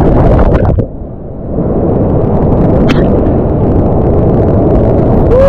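Rushing whitewater river, a loud, even roar dipping briefly about a second in.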